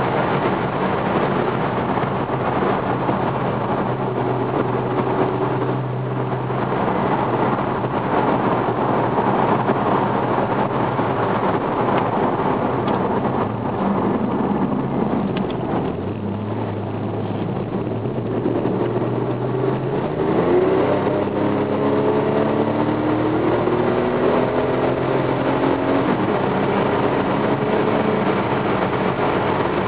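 Porsche 911 Turbo's flat-six engine heard from inside the cabin while driving, over heavy road and wind noise. About two-thirds of the way through, the engine note climbs in several short rising steps as the car accelerates hard.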